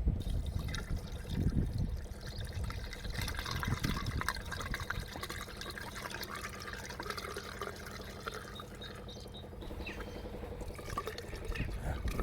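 Water pouring and splashing as a car's windscreen washer reservoir is filled by hand from a container dipped in a bucket, to dilute the Rain-X washer additive in it.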